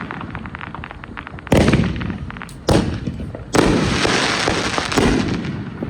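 Consumer fireworks going off: four sharp booms, roughly a second apart, each fading away after the blast. A rapid crackling runs through the first half.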